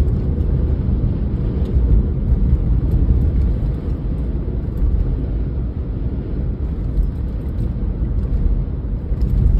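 Steady road and engine noise of a car driving at speed, heard from inside the cabin as a low, even rumble.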